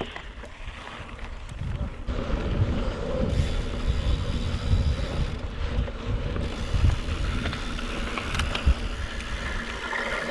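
Wind buffeting the microphone of a camera on a moving bicycle: an uneven, gusting rumble that grows louder about two seconds in.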